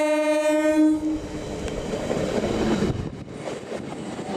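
Electric locomotive's horn sounding one steady note that cuts off about a second in, followed by the noise of an express train running past at speed.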